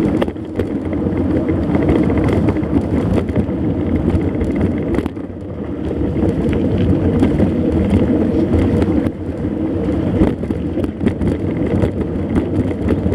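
Steady riding noise from a mountain bike: a loud, continuous rumble of tyres and wind on the microphone, with frequent small knocks and rattles from the bike over rough ground.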